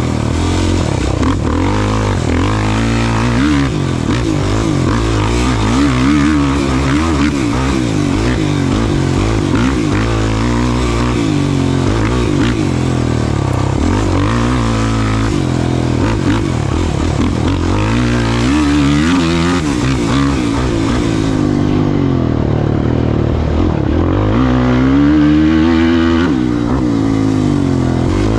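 Off-road racing engine running hard, its pitch rising and falling over and over as the throttle opens and closes, with a sharp climb near the end.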